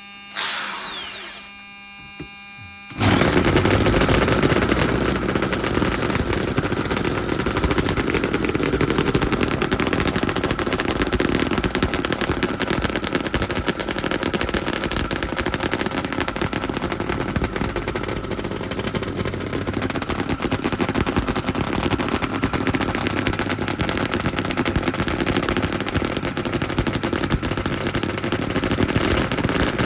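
Homemade scale model V8 engine starting: a steady hum of its electric fuel pump and fan and a brief whir, then about three seconds in the engine fires and keeps running with a rapid, even stream of firing pulses.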